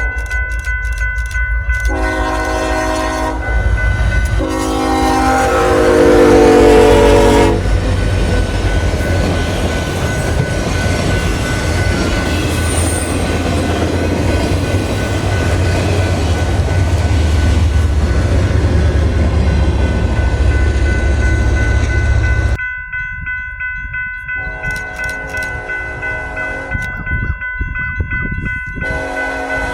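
Diesel locomotive horn sounding in long chords, loudest a few seconds in, then the heavy rumble of the train passing close by. This cuts off abruptly, and the horn sounds again in several blasts near the end.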